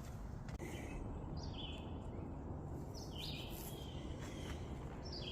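A bird calling a few times, each call a short note that steps down in pitch, over a steady low background rumble.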